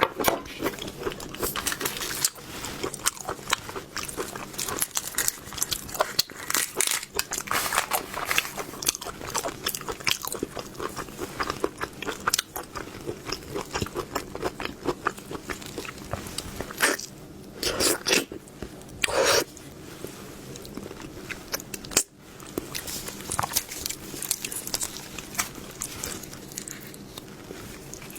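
Close-miked mouth sounds of eating seafood: irregular wet chewing and crunchy bites, with two louder, longer bites a little past the middle.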